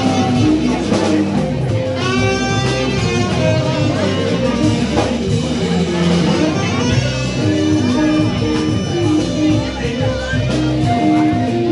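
Band music led by electric guitar, playing continuously, with bending notes about two seconds in.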